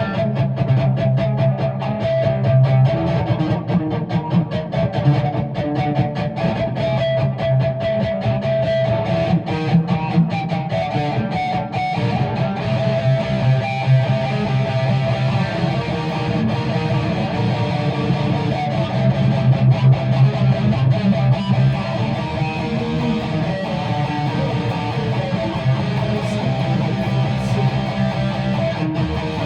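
Guitar strummed in a steady rhythm, chords ringing, with the strokes most pronounced in the first half.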